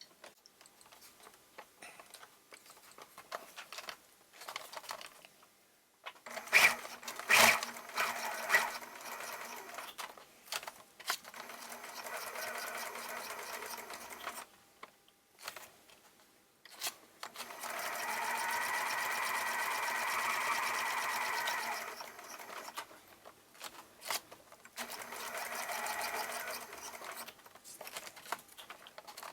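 Sewing machine stitching through paper in three short runs, the longest in the middle lasting about five seconds, with a few sharp knocks of handling before the first run.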